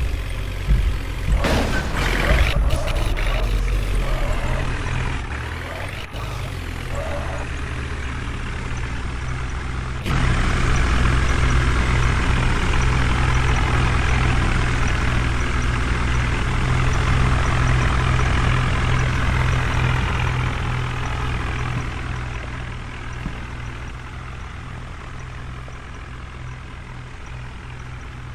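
Heavy diesel machinery engine running steadily, with some clatter near the start; the sound shifts abruptly and gets louder about ten seconds in, then slowly fades toward the end.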